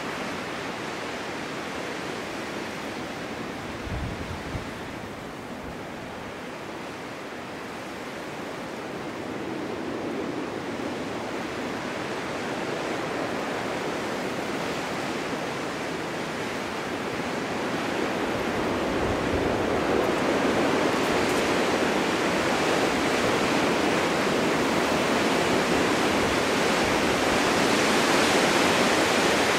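Snowstorm wind blowing in a steady rush that swells into stronger gusts, growing louder through the second half.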